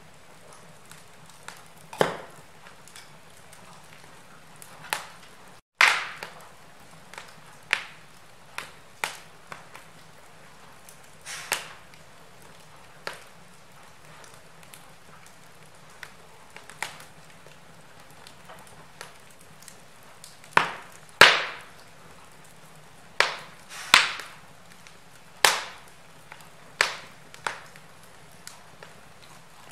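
Wood fire in a fireplace crackling: irregular sharp pops and snaps over a faint steady hiss, the loudest pops coming in a cluster in the last third. The sound cuts out completely for a moment about six seconds in.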